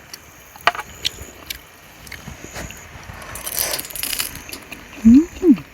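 A few light clicks and a soft rustle, then near the end a short two-note "mm-mm" hum from a person savouring a mouthful of food.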